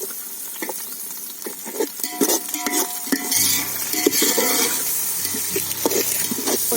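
A spoon stirring and scraping in a pan of onions, ginger-garlic paste and green chillies frying in ghee and oil, with a steady sizzle and repeated knocks of the spoon against the pan. A faint low hum comes in about three seconds in.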